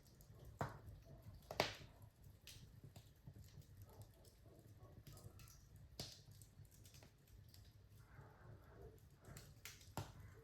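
Wood fire in a fireplace crackling quietly, with scattered sharp pops at irregular intervals, the loudest about one and a half seconds in, over a faint low rumble.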